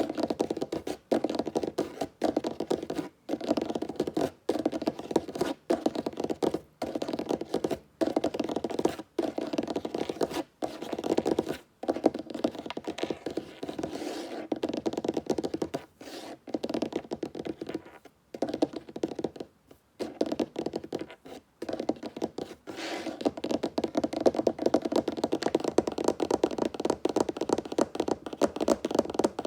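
Fingers tapping fast on a wooden tabletop, in dense flurries broken by short pauses about once a second.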